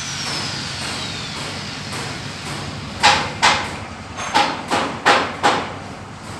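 An angle grinder spinning down with a falling whine. About three seconds in, about seven sharp hammer blows on metal follow, roughly two a second, each ringing briefly.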